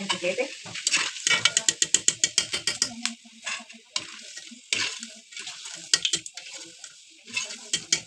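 Potato pieces sizzling in hot oil in an aluminium pan, while a wire-mesh skimmer scrapes and clicks against the pan as they are stirred and lifted out. The clicks come thick and fast for the first few seconds, then more sparsely.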